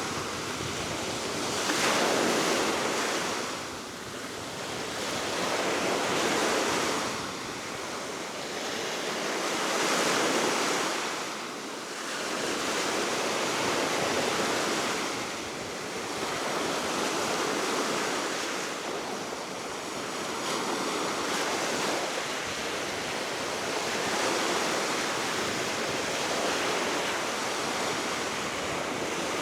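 Baltic Sea waves breaking and washing ashore, swelling and easing every four seconds or so, over a steady wind.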